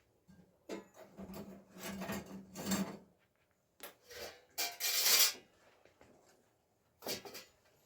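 A series of irregular scraping, rasping strokes, about eight in all with short pauses between, the loudest about five seconds in.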